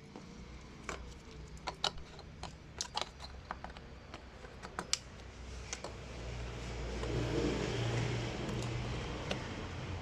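Car engine running steadily, its sound swelling for a few seconds about two-thirds of the way through, with scattered sharp clicks over it.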